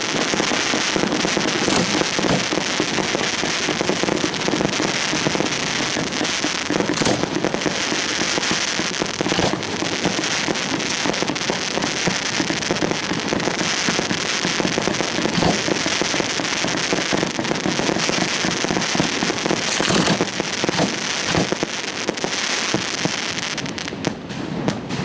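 Fireworks going off in a dense, continuous barrage of crackling and popping, with a few louder bangs standing out, about 2, 7 and 20 seconds in.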